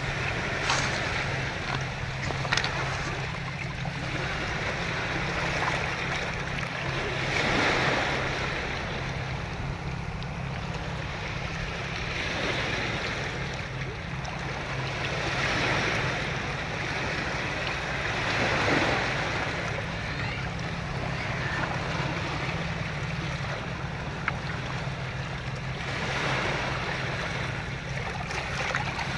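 Ocean waves washing in, the surf noise swelling and fading every few seconds over a steady low rumble.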